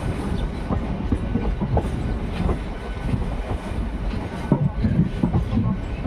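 Local passenger train running on the rails: a steady low rumble with irregular clicks and clatter from the wheels and coaches.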